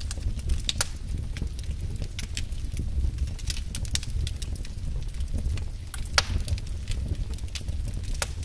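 Wood fire crackling in a fireplace: irregular sharp pops and snaps over a steady low rumble of the burning fire, with one louder pop about six seconds in.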